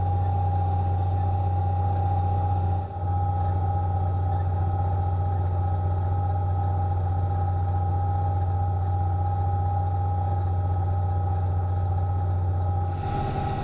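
Farm tractor engine running steadily under plowing load: a constant low drone with a steady whine above it. The drone dips briefly about three seconds in and changes character near the end.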